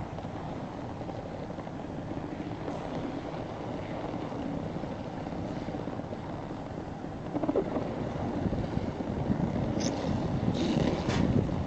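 A vehicle engine running and pulling away, its low rumble growing louder about two-thirds of the way through, with a few sharp clatters near the end.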